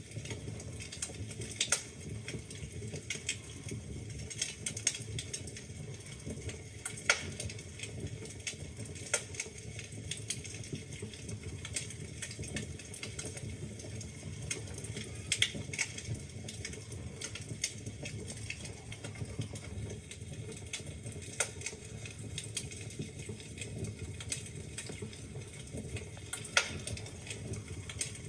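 Wood fire burning in a fireplace: a steady low rumble of flames with irregular crackles and occasional sharper pops from the burning logs.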